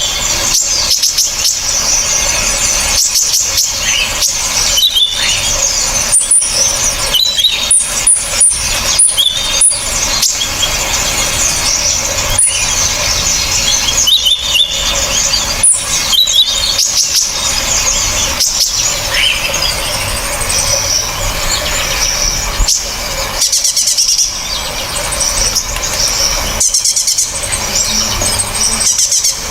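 Loud, dense songbird calls: sharp, high-pitched chirps and trills following one another in quick succession without a break.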